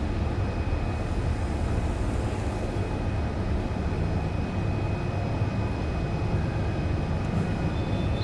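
Steady low rumble throughout, with a faint thin high tone above it and a brief high chirp at the very end.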